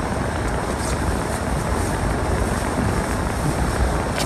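Storm wind blowing steadily and buffeting the microphone during a snowstorm.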